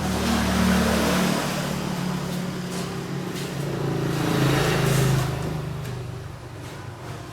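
A motor vehicle engine running close by, with a low hum that swells at the start and again about four and a half seconds in.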